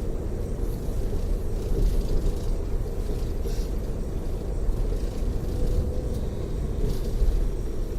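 Tour coach cruising on the freeway, heard inside the passenger cabin: a steady low rumble of road and engine noise, with a few faint ticks of cabin rattle.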